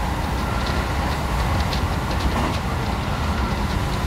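Electric train running at speed, heard from inside the passenger car: a steady low rumble of wheels on rails and running gear, with faint light rattles.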